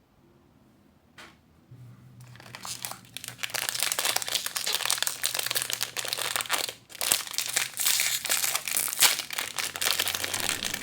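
Blind-bag toy packaging crinkling and tearing as it is opened by hand. It is quiet at first, with a single click, then crinkles continuously from about two seconds in, with a short break near the middle.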